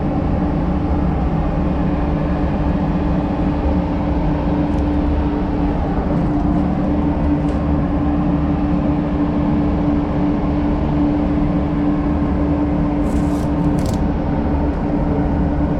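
Steady drone of paint-booth ventilation fans, with a constant low hum. Masking tape crackles briefly near the end as a strip is pulled off the roll.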